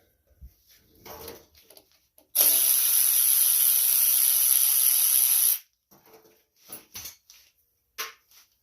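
Cordless power driver running steadily for about three seconds, spinning off a 10 mm nut, with small clicks and knocks of tools and metal parts before and after.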